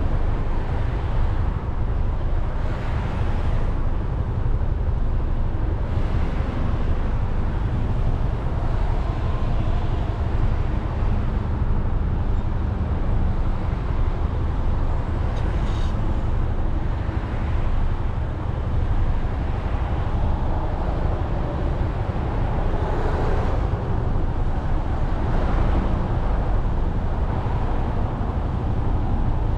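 A Suzuki Burgman 400 scooter riding along in traffic, heard from a camera mounted on it: a steady low engine and wind rumble with road noise, plus a few brief swells from other traffic passing.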